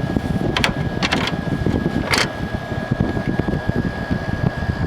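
Frigidaire FRA065AT7 6000 BTU window air conditioner running with its compressor on and cooling: a steady rumble from the blower fan with a thin steady tone over it. A few short clicks sound over the hum in the first half.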